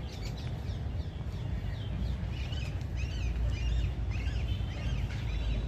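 Small birds chirping in quick runs of short rising-and-falling calls, thickest from about two seconds in, over a steady low rumble.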